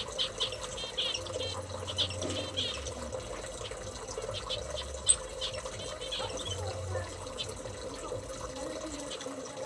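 Small aviary birds chirping: many short, high chirps repeated irregularly over a steady low hum.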